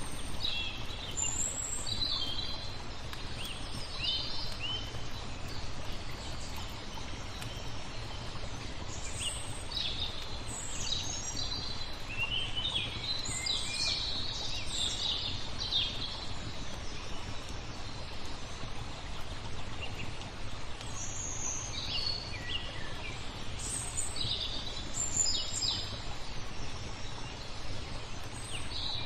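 Small songbirds chirping and twittering in scattered bursts, with a lull in the middle, over a steady background hiss.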